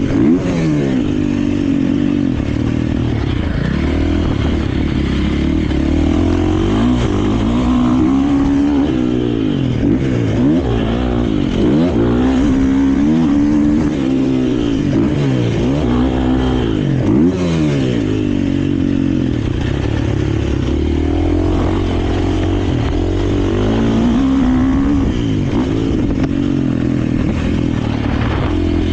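KTM 450 four-stroke single-cylinder motocross bike being ridden hard, its engine revving up and dropping back over and over as the throttle is worked and gears change.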